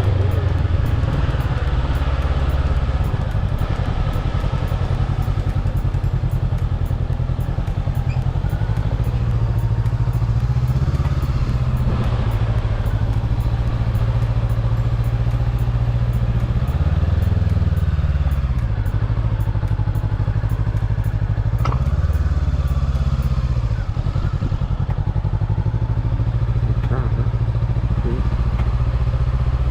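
Motorbike engine running while riding, a steady low drone whose pitch dips and climbs back twice, a little past the middle, as the revs change.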